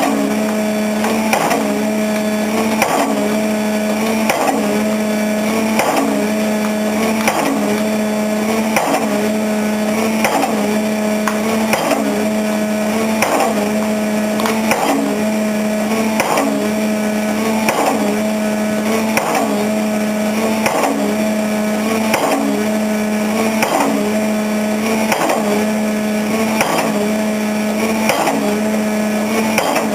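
A pile-driving hammer strikes a concrete pile at a steady beat of about four blows every three seconds, over the constant drone of the rig's engine.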